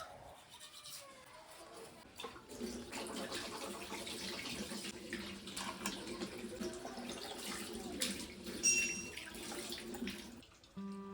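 Running water splashing, starting about two seconds in and stopping shortly before the end.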